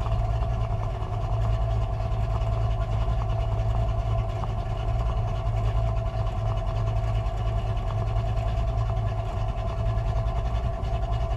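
Carbureted drag car's engine idling steadily, with a deep low rumble and no revving.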